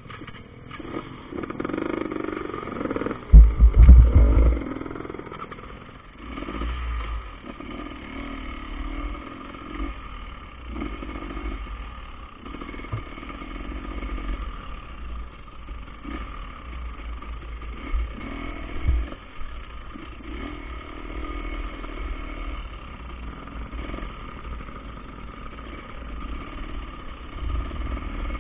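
KTM enduro dirt bike engine revving up and easing off again and again, every second or two, as it is ridden off-road. Heavy low thumps a few seconds in are the loudest sound.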